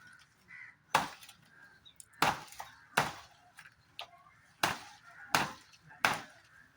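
A blade chopping into a banana plant's stalk: six sharp strikes at an uneven pace, roughly one a second.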